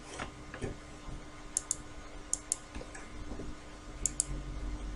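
Computer mouse clicking: three quick double clicks spread across a few seconds, over a faint steady electrical hum.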